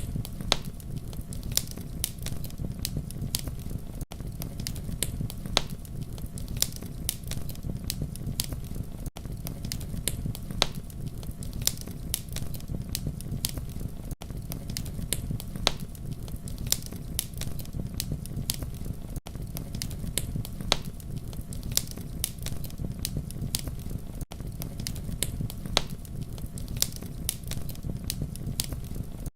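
Wood fire crackling and popping: irregular sharp snaps over a steady low rumble of flames. Brief gaps in the sound recur about every five seconds.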